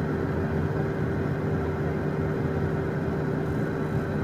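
Steady cockpit drone of a Beechcraft Premier 1A's twin Williams FJ44 turbofans at idle thrust, with a constant low hum and a faint high whine, unchanging throughout.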